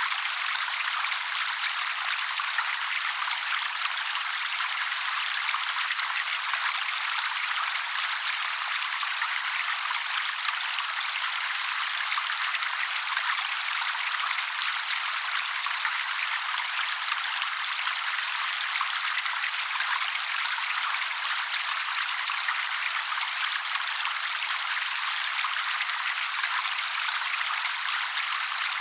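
Steady trickling water: an even, constant splashing hiss with no bass.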